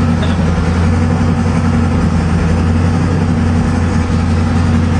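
Twin-turbocharged 388 cubic inch LS-based V8 running steadily at idle on an engine dyno, its pitch and level holding even.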